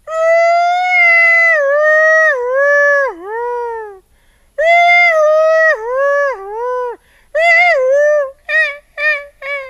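An animal's drawn-out howling: long held cries that dip in pitch at their ends, then from about seven seconds in a run of shorter, quicker cries.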